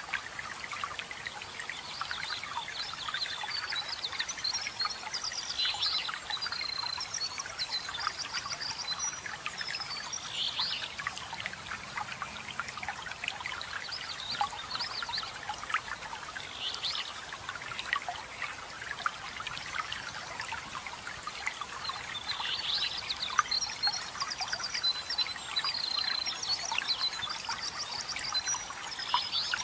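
Waterfall water splashing and trickling steadily, with forest birds singing over it: quick trilled phrases and short chirps that cluster near the start and again near the end.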